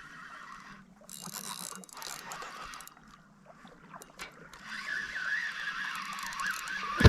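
Spinning fishing reel being cranked, a wavering mechanical whir that starts about halfway through and keeps going, with some rustling noise before it.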